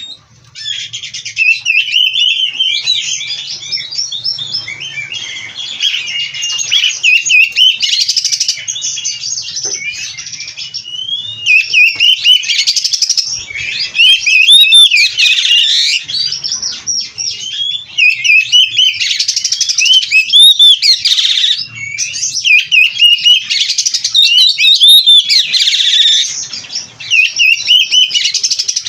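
Oriental magpie-robin (kacer) singing continuously and loudly: a rapid, ever-changing stream of whistles, slurred glides and chattering phrases, full song with fill-in phrases.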